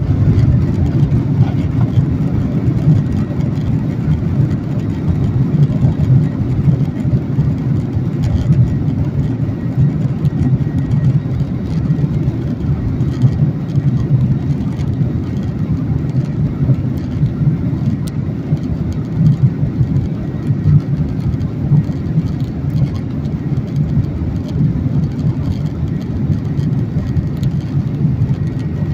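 Steady low rumble of a Boeing 737-900ER's CFM56-7B jet engines, even in level with no rise or fall.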